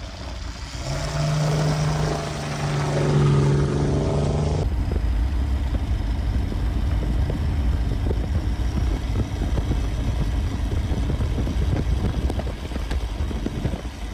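A road vehicle driving, a steady low rumble of engine and road noise. For the first few seconds a loud held pitched tone sounds over it, then cuts off suddenly.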